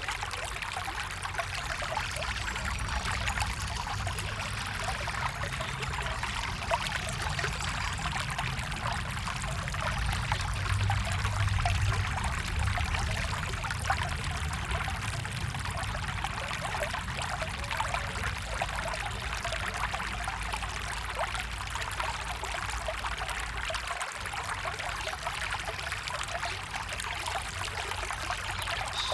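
Running water flowing steadily with a continuous rushing and trickling, swelling slightly about halfway through.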